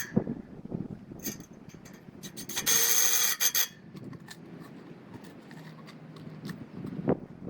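Scattered metal clinks and knocks of gear being handled, with a power drill running for about a second near the middle, driving a screw to fasten the ladder guide to the log.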